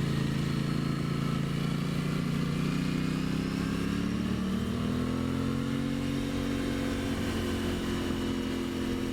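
2023 Aprilia Tuono 660 parallel-twin engine pulling at steady revs, then rising in pitch about four seconds in and holding at the higher revs.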